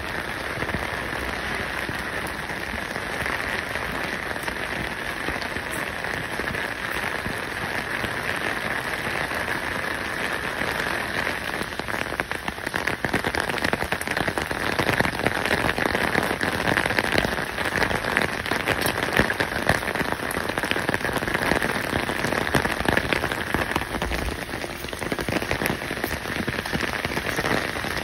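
Steady rain pattering on a surface: a dense, crackling hiss that grows somewhat louder about halfway through.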